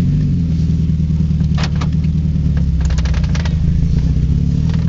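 Turbocharged flat-four engine of a 2004 Subaru WRX running under way, heard from inside the cabin as a steady low drone whose pitch shifts slightly. A few short clicks or rattles come about a second and a half in and again around three seconds in.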